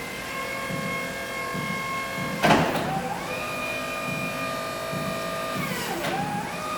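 Electric motors of a Crown RR5210 electric reach truck whining in operation, the pitch dropping and climbing back up twice as the truck slows and speeds up or the hydraulics start and stop. A short loud noisy burst comes about two and a half seconds in.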